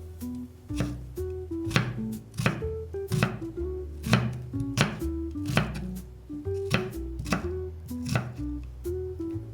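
Kitchen knife chopping food on a cutting board in slow, separate strokes, about one every 0.7 seconds, over background music.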